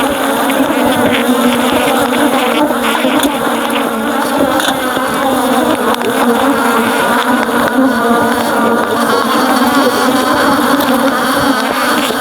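Loud, dense buzzing of many honeybees flying around an opened hive, an active colony; many overlapping wavering hums held steadily.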